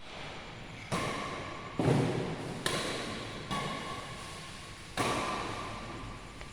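Badminton rackets smacking a shuttlecock in a rally, five sharp hits a little under a second apart, each echoing in a large sports hall.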